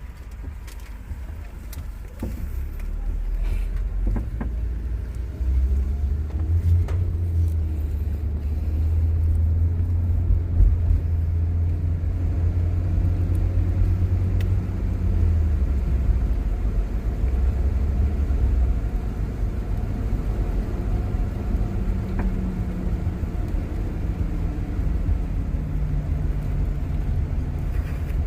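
Car engine and road noise heard from inside the cabin while driving on a highway: a steady low rumble that grows louder about three and five seconds in, then holds.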